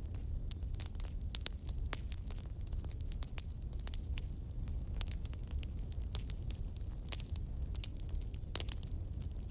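Food frying in oil in an aluminium kadai, with many irregular crackles and pops over a steady low hum.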